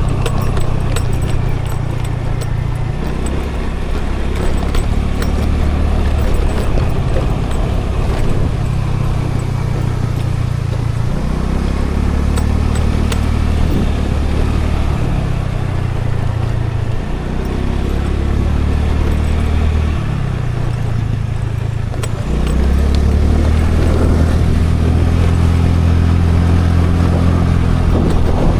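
Scooter engine running on the move, its note rising and falling with the throttle several times, then climbing and getting louder about three quarters of the way through, over a haze of road and wind noise.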